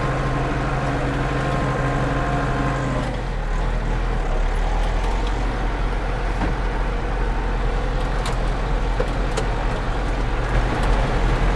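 Tractor engine running as the tractor drives off. About three seconds in, its steady note drops to a lower, heavier one, and a few sharp clicks or rattles come through in the second half.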